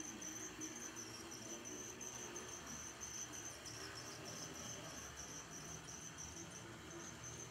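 HO-scale brass PRR I-1 2-10-0 Decapod model locomotive running, its open-frame motor giving a steady high, slightly wavering whine over a low hum of the mechanism.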